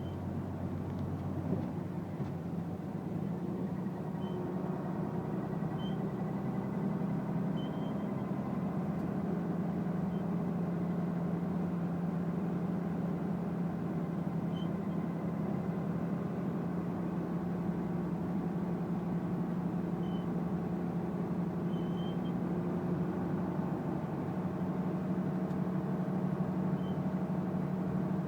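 A vehicle engine running steadily, a low hum that rises slightly in pitch over the first few seconds and then holds.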